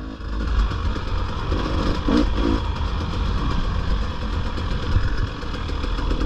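450 dirt bike engine running while being ridden, heard steadily throughout with a dip in level at the very start.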